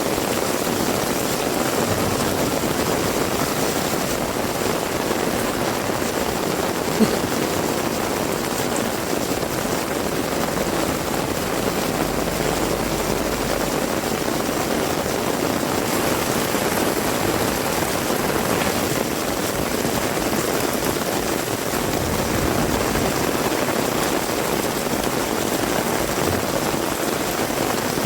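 Heavy rain falling steadily as a continuous, even hiss, with one sharp tick about seven seconds in.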